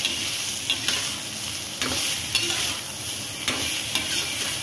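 Rehydrated sun-dried bitter gourd pieces sizzling in hot oil in a kadhai while a flat metal spatula stirs and scrapes them, with a short scraping stroke every second or so.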